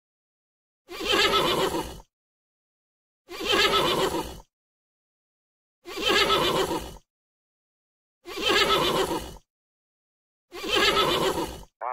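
Horse neighing five times, each whinny about a second long, at even intervals with silence between them.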